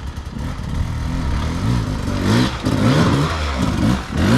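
Dirt bike engine revving up and down over and over, getting louder as the bike comes closer.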